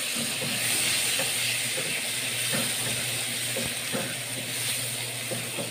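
Cherry tomato halves sizzling in hot oil with small anchovies and sliced ginger in a frying pan, a loud hiss that slowly dies down as the water from the tomatoes steams off. A wooden spatula stirs them, knocking lightly against the pan now and then.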